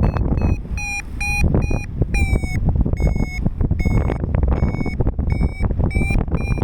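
Paragliding variometer sounding its climb tone: short electronic beeps about two a second, their pitch shifting up and down, signalling that the glider is rising in lift. Steady wind roar on the microphone runs underneath.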